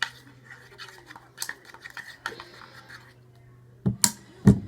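A utensil clicking and scraping against a bowl as the slime mixture of glue and tint is stirred, in quick irregular strokes that thin out about halfway through. Two loud knocks follow near the end.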